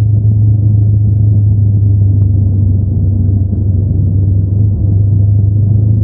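Honda NX500's parallel-twin engine running through its stock exhaust, holding a steady, deep note with no revving.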